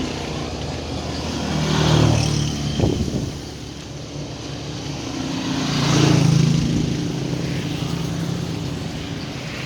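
Road traffic passing close by: two motor vehicles go past, one about two seconds in and another about six seconds in, each swelling and fading over a steady traffic rumble, with a single knock about three seconds in.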